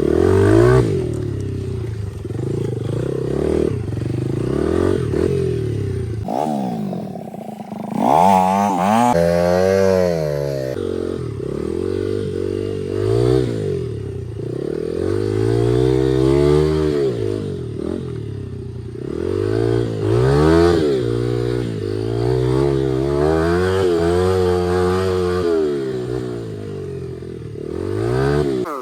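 2003 Honda XR80's single-cylinder four-stroke engine, running with its exhaust baffle removed, revving up and down over and over as the dirt bike is ridden on the trail.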